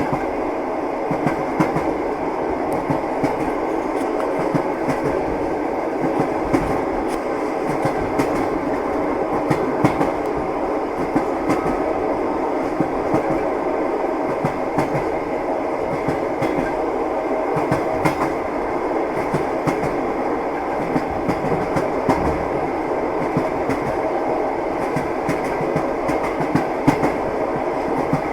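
Train wheels clattering over rail joints, a steady rumble with frequent irregular knocks, as heard from inside a moving railway carriage.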